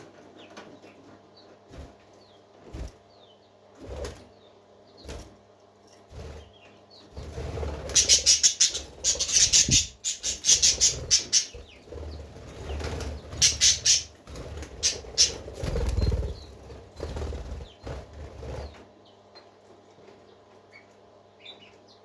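Parakeets flapping their wings in rapid flurries, with scattered light knocks and a few soft chirps. The flapping is loudest in two long runs through the middle.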